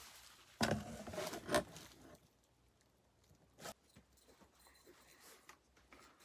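Packaging being handled while a parcel is unboxed: a second of rustling, then a single sharp tap a few seconds later, with near silence between and after.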